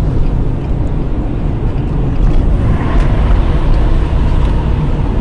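Steady rumble of a moving car: engine and tyre noise on the road, with no clear impact.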